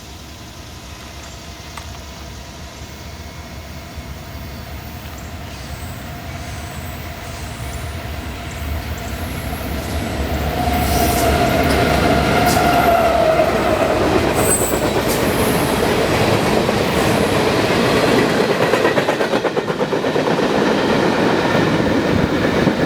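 A train approaches, growing steadily louder over about ten seconds, then passes close by with a loud, steady rumble of wheels on rail. There is a brief squeal as it arrives, and a few sharp clicks from the rails.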